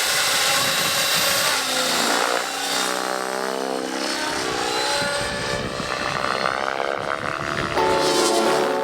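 Radio-controlled helicopter in aerobatic flight, its rotor and motor whine sliding up and down in pitch as it manoeuvres.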